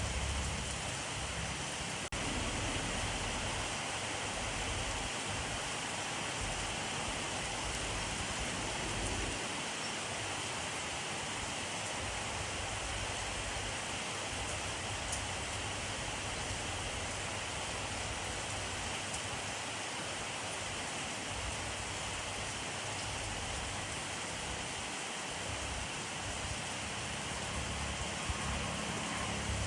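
Steady rainfall, an even hiss of rain with no breaks, dipping briefly about two seconds in.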